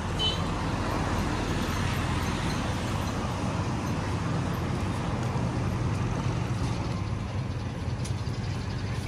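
A motor running steadily with a low rumble.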